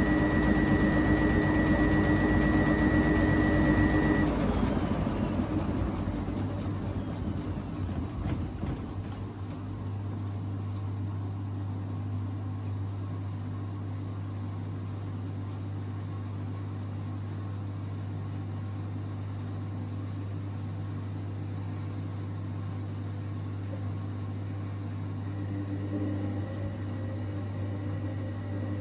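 Hoover New Wave Plus 5 WA1300 washing machine in its final spin cycle: the spinning motor's steady whine cuts off about four seconds in and the drum winds down over the next several seconds. A steady low hum follows, and near the end the motor whine begins to rise again as the machine starts another spin.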